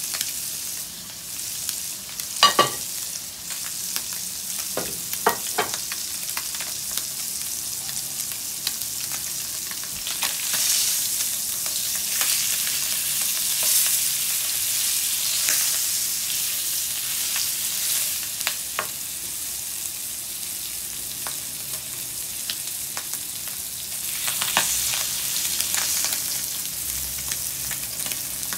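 Tuna pieces sizzling in oil in a nonstick frying pan, a steady hiss that swells louder at times as the pieces are turned with a fork and a spatula. Utensils click and knock against the pan now and then, sharpest about two and a half seconds in.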